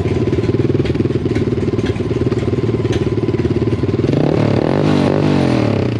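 Grom-clone mini motorcycle's small single-cylinder engine idling close up, with other motorcycle engines running behind it. About four seconds in it is revved up and down a couple of times.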